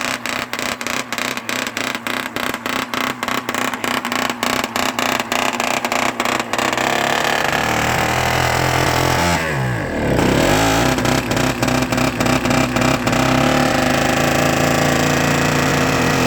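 DZ-143 motor grader's small starting engine (pony motor) running in deep cold at −29 °C, popping rapidly and evenly at first; from about seven seconds a deeper steady drone joins, and about ten seconds in the pitch briefly dips and sweeps back up before it settles into a steady run.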